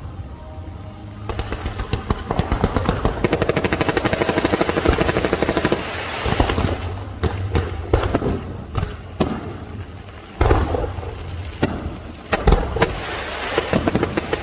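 Aerial fireworks going off: a fast run of crackling reports for several seconds, then single sharp bangs, and crackling again near the end. Music plays alongside.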